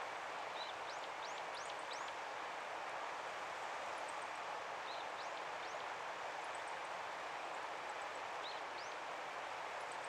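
Steady outdoor background rush, with a bird calling in short high rising notes, three or four at a time, three times.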